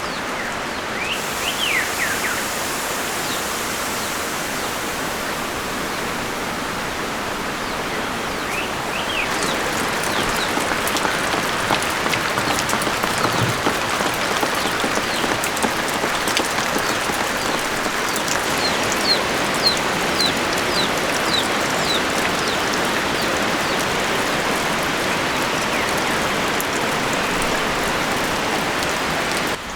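Steady rain falling, growing a little heavier about a third of the way through, with a few short, faint, high chirps over it.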